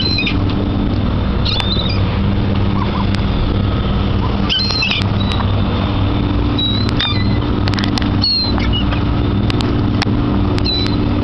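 Steady low hum of a running engine, with short, high-pitched bird calls every second or two.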